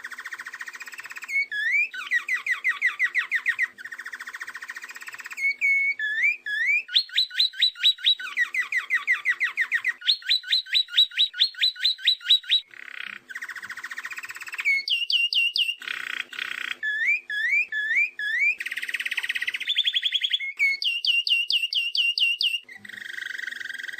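Songbird singing in phrases of fast repeated whistled notes and rattling trills, each phrase a few seconds long and breaking off abruptly, as in a recording spliced together.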